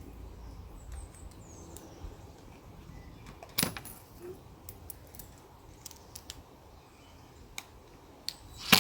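Small metallic clinks and ticks of screws and fender washers being handled, with one louder clack about three and a half seconds in.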